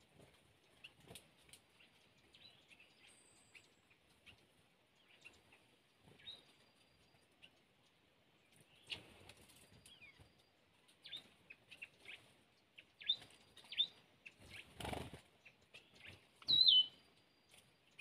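A small bird bathing in a shallow stream, with short splashes and wing flutters, the biggest about fifteen seconds in. Scattered short high bird chirps throughout, and the loudest sound is one sharp chirp near the end.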